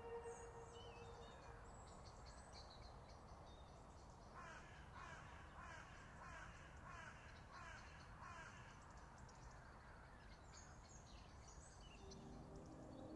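Faint outdoor bird sounds: a bird calls in an even series of about ten short, falling calls, roughly two a second, starting about four seconds in. Small birds chirp faintly and high in the background near the start and end.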